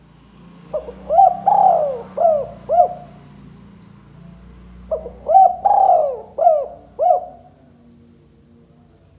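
Spotted dove (tekukur) cooing: two phrases about four seconds apart. Each phrase is a run of about five short, arched coos with one longer drawn-out coo in the middle.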